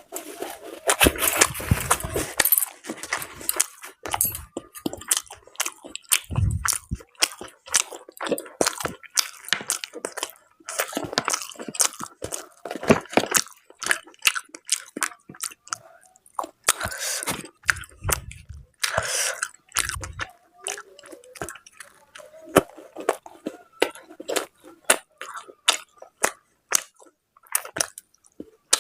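Close-up eating sounds: a person chewing and biting food from a meal of mutton curry and luchi, with rapid wet mouth clicks and smacks throughout.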